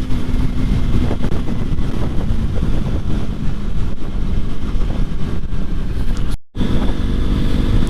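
Wind buffeting the microphone while riding a motorcycle, with the engine running underneath. The sound drops out for a split second about six and a half seconds in.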